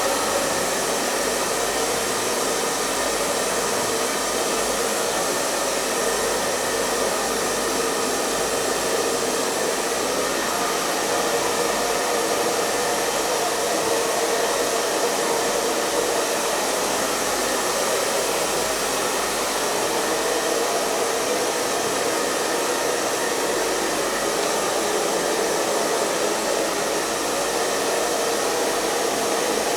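Hair dryer running continuously at a steady speed: an even rushing blow of air with a faint steady hum of the motor underneath, unchanging throughout.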